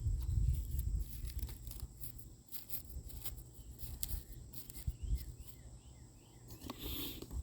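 Wind rumbling on the microphone, strongest in the first second or so, with scattered clicks and rustles of handling and a few faint high chirps around the middle.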